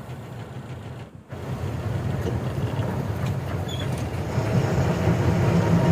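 Heavy vehicle engine running with a steady low rumble. It drops out briefly about a second in, then grows gradually louder.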